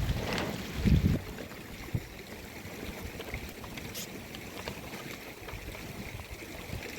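Steady running water with a few faint small ticks, broken in the first second or so by two dull low thumps and a sharp click about two seconds in.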